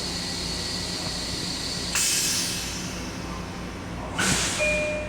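Steady hum inside a Long Island Rail Road M7 electric railcar. About two seconds in comes a sudden loud hiss of air that fades away, and two shorter hissing bursts follow near the end.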